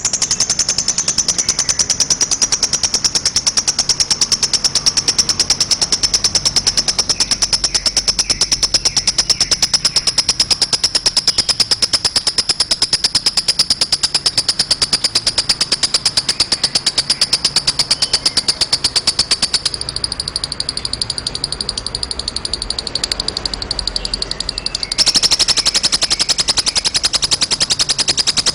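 Lovebird 'ngekek': one long, very rapid, high-pitched chattering trill that keeps going without a break. It thins and softens about twenty seconds in and comes back louder about five seconds later.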